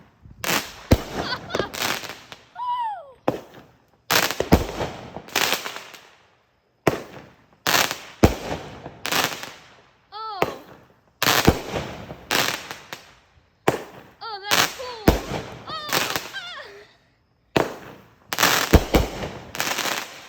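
Nine-shot consumer firework cake firing: a rapid run of launch thumps and loud aerial bursts with crackling tails, a few wavering whistles among them, stopping near the end.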